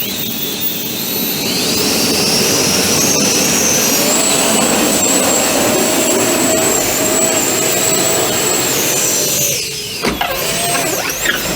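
Four 50 mm, 12-blade electric ducted fans of a 3D-printed quadcopter, driven by 4600KV brushless motors, spooling up to a loud, high jet-like whine over the first few seconds and holding it steadily in flight. About nine and a half seconds in the whine drops, swings up and down briefly as the throttle changes, and then winds down near the end.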